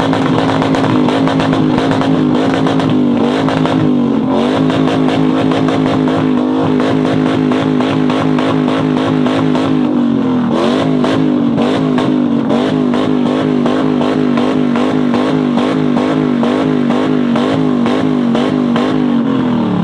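Modified car engine held at high revs against a two-step rev limiter for a long stretch, its note bouncing at one pitch with rapid crackling pops. The revs drop away just before the end.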